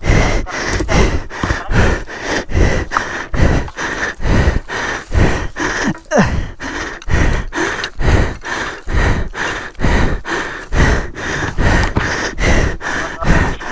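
A person's heavy breathing and thumps close to a body-worn microphone, coming evenly about twice a second, as of someone walking and breathing hard. A faint steady high tone runs underneath.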